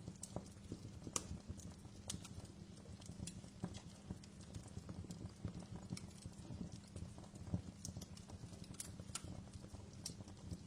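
Wood fire crackling: irregular sharp pops and snaps over a steady low rumble, with a louder snap about a second in and another past the middle.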